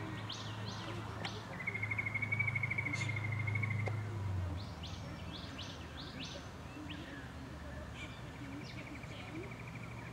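Birds calling: runs of short high chirps and a rapid trill, over a low steady hum that stops about four and a half seconds in.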